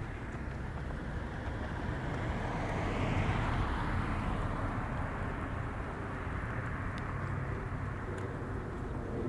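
A vehicle passing by, its rushing noise swelling to a peak about three seconds in and then fading away.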